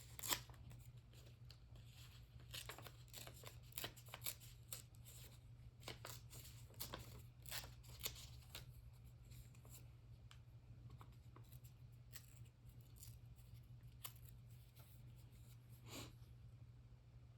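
Faint handling of paper and craft tools: small irregular rustles, taps and clicks, busiest in the first half and sparse after, over a low steady hum.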